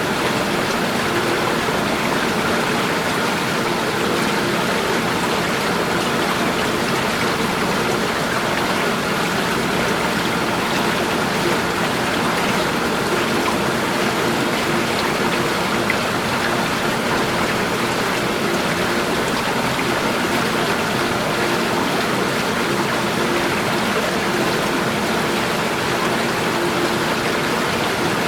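Running water rushing and splashing steadily, a constant even wash of sound with no let-up.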